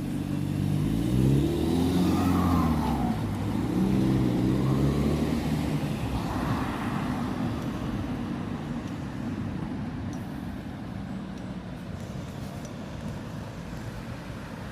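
A passing road vehicle's engine, its pitch rising and falling as it accelerates, loudest in the first few seconds and fading away about halfway through into a steady low street rumble.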